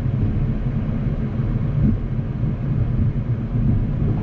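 Steady low rumble of a Boeing 737 MAX 8 heard on its flight deck: engine and airframe noise with no distinct events.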